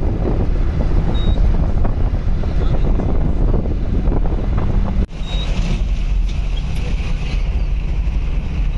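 Safari vehicle's engine and driving rumble with wind buffeting the microphone, cut off sharply and resumed about five seconds in.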